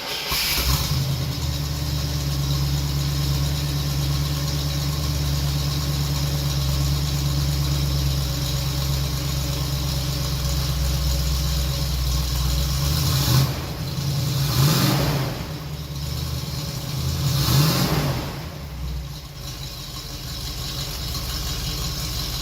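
1966 Oldsmobile Toronado's 425 V8, fitted with a hotter aftermarket cam, running steadily at idle. It is revved briefly about three times in the second half, then settles back to idle.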